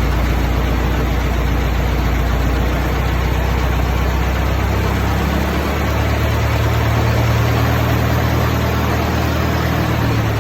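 1920 Ford Model T's four-cylinder engine running steadily, its speed picking up about halfway through as the fuel mixture is adjusted; the owner judges the mixture to be way off.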